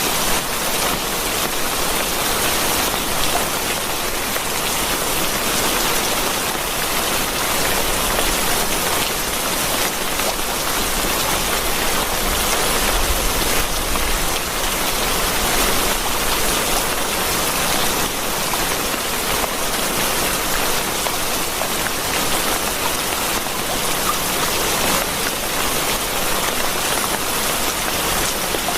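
Steady, dense rainfall pattering on surfaces as an even hiss, with a brief low rumble about 13 seconds in.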